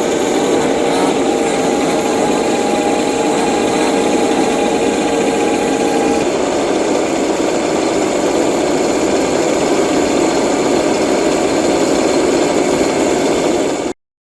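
Small two-stroke petrol engines of 1/5-scale off-road RC cars running steadily, one holding an even note for the first six seconds over the buzz of the others. The sound cuts off suddenly near the end.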